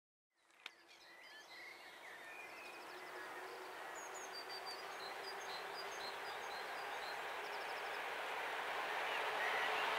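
Small birds chirping over the growing sound of an approaching electric train, a noise with a steady hum along the rails that gets steadily louder. A single sharp click about half a second in.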